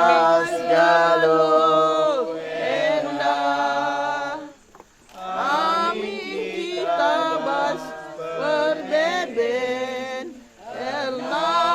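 A group of voices singing unaccompanied in long, slow held phrases, with breaks between phrases about 5 seconds in and again near the end.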